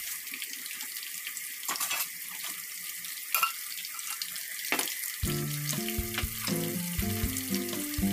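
Food sizzling in a hot pan: a steady hiss with scattered sharp pops and crackles. Background music with distinct melodic notes comes in about five seconds in.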